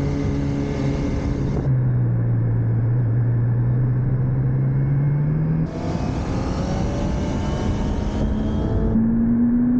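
Motorcycle engine heard from on board during track riding, with steady wind rush. Its pitch climbs slowly as it accelerates, jumps abruptly twice, and climbs again near the end.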